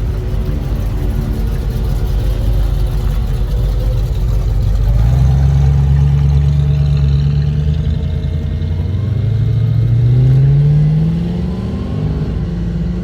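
Engine of a 1941 cab-over-engine truck under way, holding a steady note, then rising in pitch as it accelerates for a couple of seconds before dropping back near the end.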